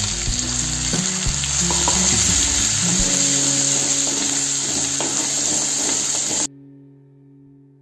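Wet spice paste sizzling as it fries in hot oil in a metal kadhai, with clicks and scrapes of a steel spoon stirring it. The sizzle cuts off abruptly about six and a half seconds in.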